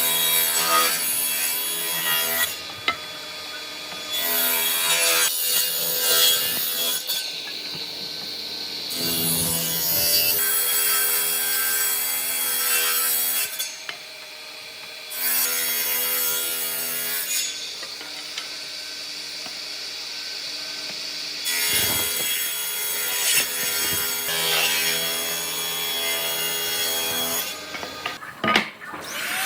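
Tools working wood, sawing and rubbing against the timber, in a series of separate passes a few seconds each, with a steady hum under several of them.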